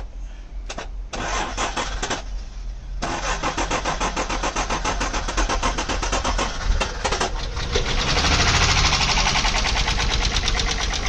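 Honda Passport engine being started with its ignition switch bypassed: a few clicks, then the starter cranking it from about three seconds in, and the engine catching and running louder from about eight seconds in.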